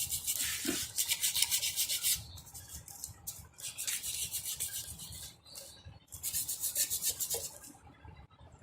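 Fast back-and-forth hand rubbing strokes on a part of an engine starter under restoration, several strokes a second. There are three bouts: about two seconds at the start, a short one around four seconds in, and another near the end.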